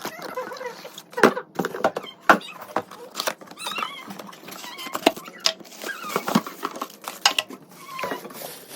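Unboxing handling noise: packaging rustling and crinkling, broken by irregular sharp taps and knocks.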